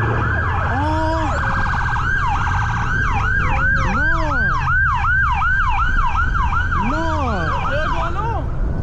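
Police car sirens going at once: one yelps in a fast, repeating falling sweep, about three a second, while another wails up and down about every three seconds, over a low rumble. The fast yelp cuts off shortly before the end.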